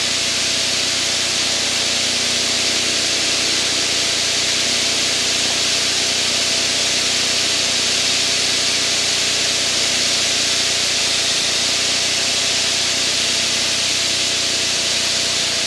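Steady in-flight cockpit noise of an aircraft: an even hiss of airflow over a low, unchanging engine drone with a few steady tones.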